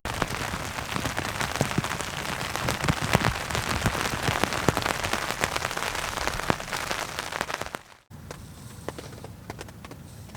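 Heavy rain hitting an oilskin tarp: a dense mass of drop impacts. About eight seconds in it cuts off sharply and gives way to lighter, scattered drops.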